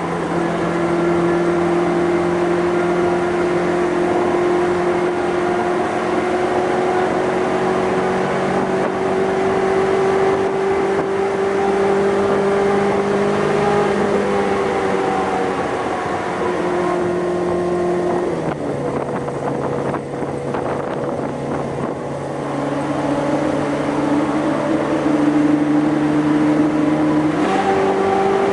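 Ferrari F430 V8 running through an M.S. Racing aftermarket exhaust as the car drives. The engine note climbs slowly, drops twice in the middle, then jumps up again near the end.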